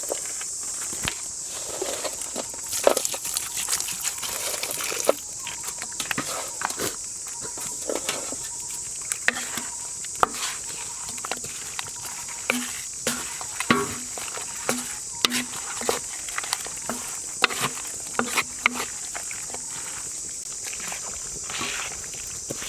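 Steady high-pitched drone of jungle insects, with scattered clicks, taps and knocks of handling throughout and a run of short low notes about midway.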